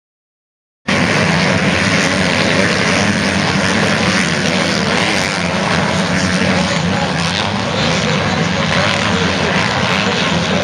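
Motocross bikes racing, their engines running at high revs in a steady, dense drone that cuts in suddenly about a second in after a moment of silence.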